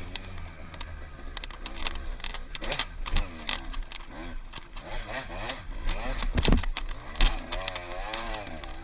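Dirt bike engine revving up and down as it rides, its pitch rising and falling repeatedly, over a steady low rumble with frequent short knocks and rattles.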